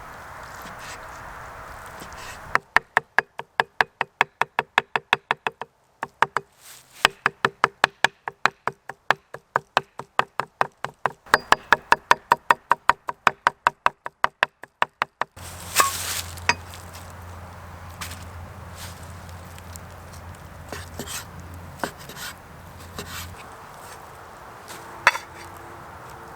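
Knife chopping rapidly on a cutting board, about three to four strokes a second, with a short pause partway through. It stops suddenly, leaving quiet outdoor ambience with a low hum and a few scattered clicks.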